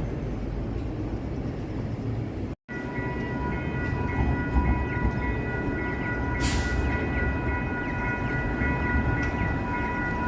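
SacRT light rail train running, with a low rumble. After a break about two and a half seconds in, a steady high whine of several tones sets in and holds, and a short hiss sounds near the middle.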